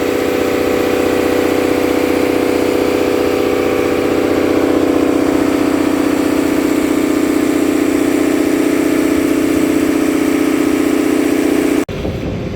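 Fishing boat's engine running steadily at constant speed, a loud even drone. Near the end it cuts off abruptly, giving way to a quieter, irregular sound.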